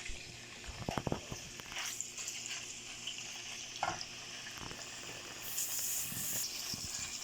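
Chicken breast strips frying in hot oil in a pan, with a steady sizzle and a few knocks of a utensil stirring them. The sizzle swells louder for about a second near the end.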